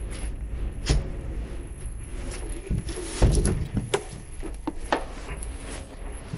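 Footsteps picking over a damaged, debris-strewn floor: scattered clicks, knocks and creaks, with a heavier thump about three seconds in, over a steady low rumble.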